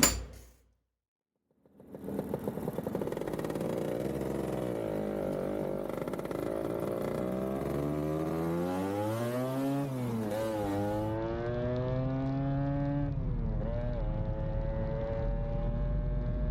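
Motorized bicycle's motor running on a test ride, its pitch climbing steadily as it gathers speed, dipping briefly twice (about ten and fourteen seconds in) and then rising again.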